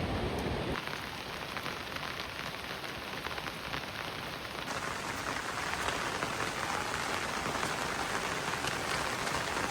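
Rain falling steadily, a dense hiss of many small drop impacts. The sound changes abruptly about a second in and again near the middle, as at cuts between shots.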